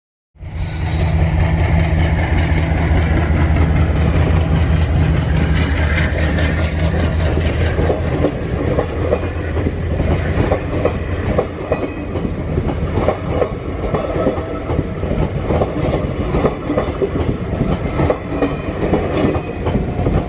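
Diesel-hauled passenger train passing close by at speed. For the first several seconds a steady low engine drone from the diesel locomotive dominates. Then the coaches' wheels clatter over the rail joints in a rapid, continuous rhythm.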